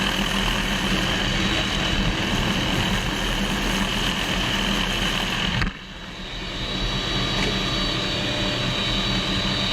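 Helicopter engine and rotor noise, steady and loud with a constant whine. It drops sharply about six seconds in, then rises back to a steady level.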